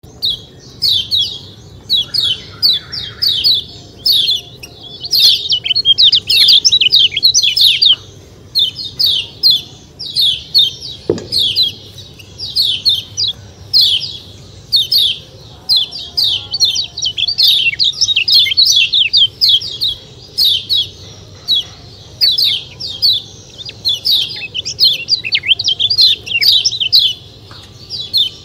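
Kecial kuning, a small white-eye, giving rapid, high 'ciak ciak' chirping calls in quick bursts, each note sweeping quickly downward.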